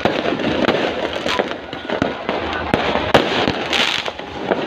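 Fireworks going off in rapid succession: a string of sharp bangs and crackles over a dense background noise, with the loudest bang about three seconds in.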